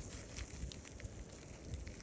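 Campfire crackling: scattered faint pops and snaps over a low rumble.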